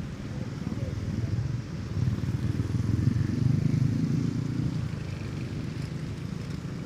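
Motorcycle engine running while riding, swelling for a couple of seconds as the rider accelerates, then easing.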